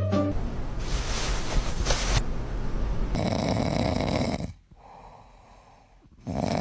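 A sleeping cat snoring in long breaths, which drop away to a faint sound for about a second and a half near the end before the snoring picks up again.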